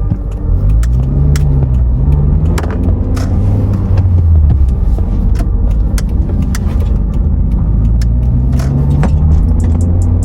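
Toyota car's engine and road noise heard from inside the cabin while driving, the engine note rising and falling as it accelerates about a second in and again near the end, with scattered light clicks and rattles.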